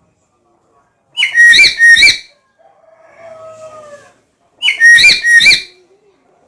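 Black-capped lory calling: two bursts of three quick, loud, shrill notes a few seconds apart, with a softer, lower, drawn-out note between them.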